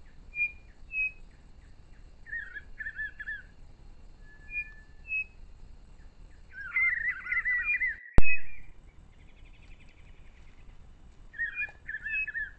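Wild birds singing in bouts of short, repeated warbling phrases with a few higher single chirps. A single sharp click comes about eight seconds in.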